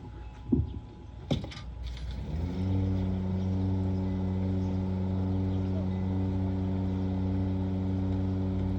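A few clicks and knocks, then about two and a half seconds in a motor spins up with a short rising pitch and settles into a steady, even hum.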